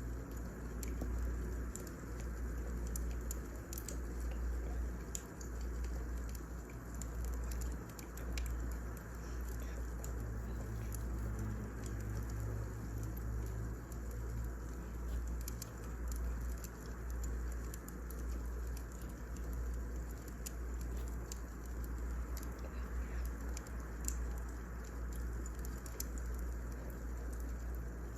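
Firewood burning in a fireplace: a steady low rumble with frequent sharp crackles and pops scattered throughout.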